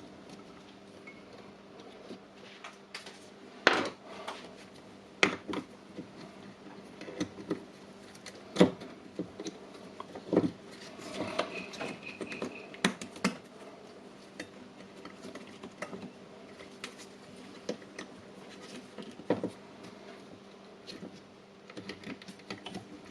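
Hand work on an opened cordless rotary hammer drill's plastic housing and parts. Irregular sharp clicks and knocks of tools and plastic pieces being handled, heard over a faint steady hum.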